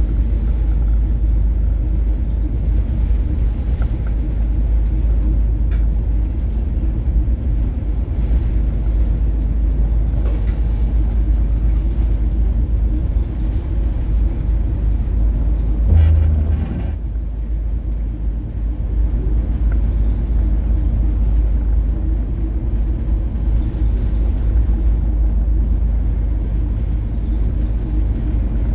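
Steady low rumble of a coastal cargo ship under way in heavy seas, its engine and hull droning, with a single heavy thump about halfway through.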